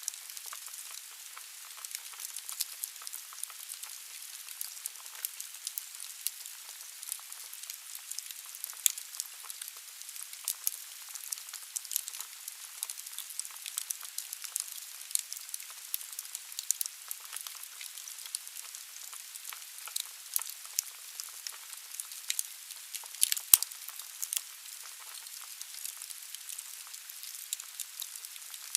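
Wood fire burning in a fireplace: a steady hiss with frequent sharp crackles and pops of burning logs, one louder pop about three-quarters of the way through.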